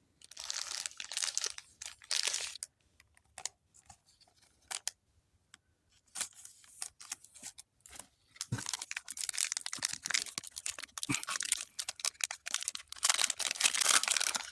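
Foil Pokémon booster pack wrapper being torn open and crinkled by hand, in spurts with small clicks between. The crinkling grows steadier and louder over the last few seconds.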